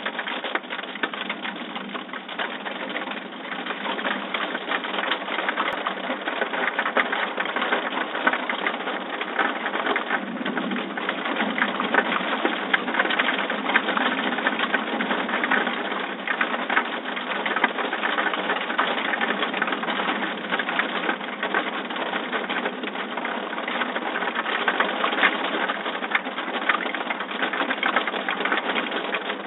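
Heavy thunderstorm rain falling steadily, a dense patter of drops.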